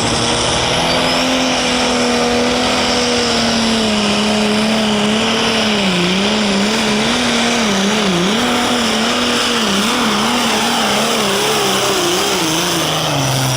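Super stock pulling tractor's heavily modified diesel engine running flat out down the track under the load of the sled. Its pitch holds steady at first, wavers rapidly up and down through the second half as the load pulls the revs around, and falls away near the end as the throttle comes off.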